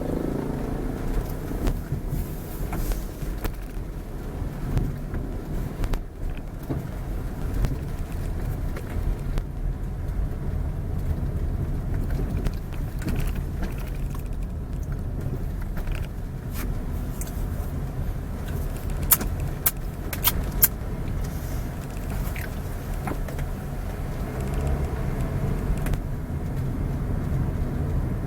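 Car driving along, a steady low rumble of engine and road noise, with a few sharp clicks near the end.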